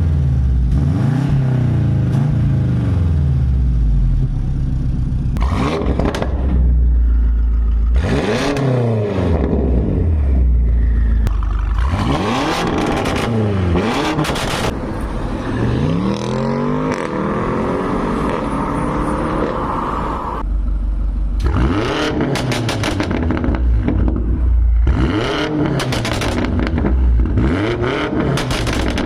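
Car engine revved again and again through its exhaust, the pitch climbing and dropping in a series of blips, with bursts of crackles and pops between the revs.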